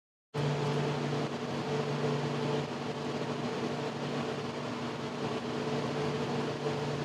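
A steady mechanical hum, like a motor or fan running, with a constant low drone under a wash of noise. It starts abruptly about a third of a second in and holds level.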